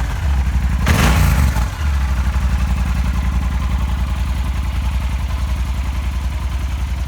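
2012 Yamaha Super Tenere's parallel-twin engine running through its stock exhaust: a brief rev about a second in, then it settles back to a steady idle.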